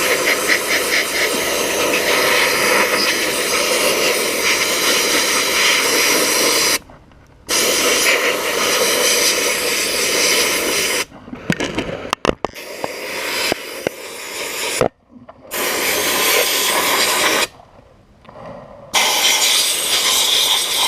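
Harbor Freight sandblast gun blasting glass bead media onto a heavily oxidized Kawasaki KZ400 engine: a loud, steady hiss of compressed air and media that cuts off briefly several times and comes back.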